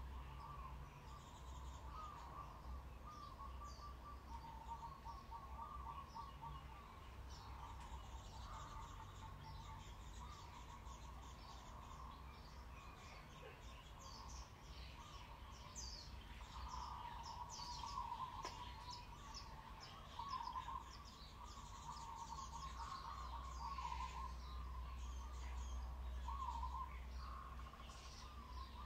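Birds chirping steadily in the background, a continuous warbling chatter with sharper high chirps crowding in about halfway through.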